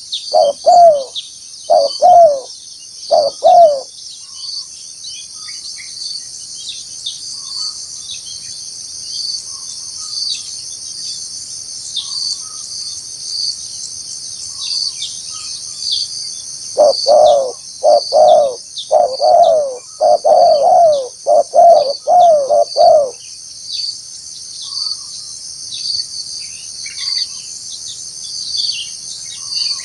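Spotted dove cooing: a few coos in the first seconds, then after a long pause a run of about eight coos in quick succession. A steady high insect chorus with evenly spaced pulses runs underneath throughout.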